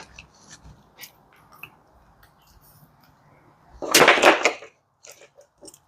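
Wiring harnesses and their plastic connectors being handled: light clicks and ticks, with one louder rustle about four seconds in.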